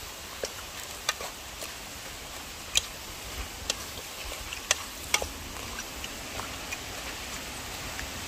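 Chicken back and ackee cooking in a pot over an open fire: irregular sharp crackles and pops over a steady hiss.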